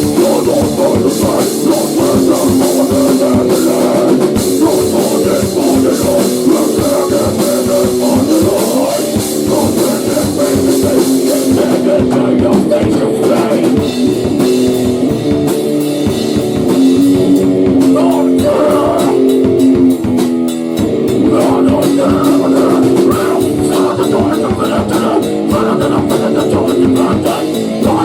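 Rock band playing a loud grunge/hardcore song on guitar and drum kit, with a brief break about two-thirds of the way through.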